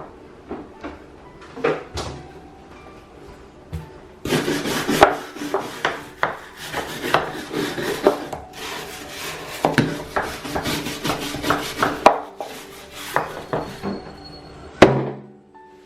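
Hard objects knocking, clattering and rubbing against each other as things are handled and scrubbed. A dense run of quick knocks and scraping starts about four seconds in, and a single sharp knock comes near the end.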